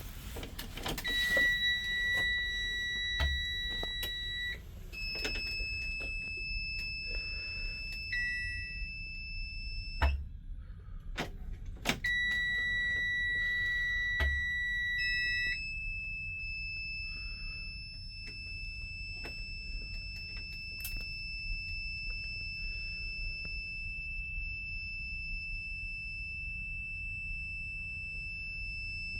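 Diesel engine of a 2024 Freightliner S2C bus running in a cold start at -1°F, with a steady low rumble under dashboard warning buzzers. The buzzers sound in long steady tones that switch between a lower and a higher pitch several times, with a couple of sharp clicks about ten and twelve seconds in.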